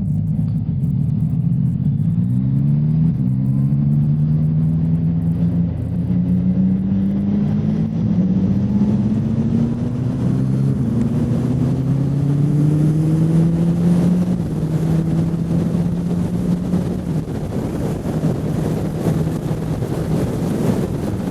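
Motorcycle engine under way: it revs up through quick gear changes early on, then pulls with a slowly rising pitch that drops back about two-thirds through and settles to a steady cruise. Wind rushes underneath throughout.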